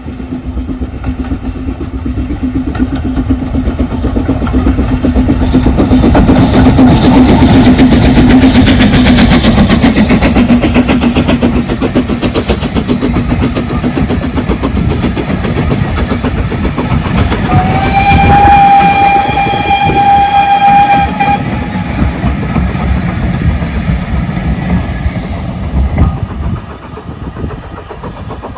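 A steam train running past with wheels clattering over rail joints, the noise swelling to a peak and easing off. About two-thirds of the way through, the locomotive's whistle sounds once for about four seconds, rising briefly in pitch as it opens.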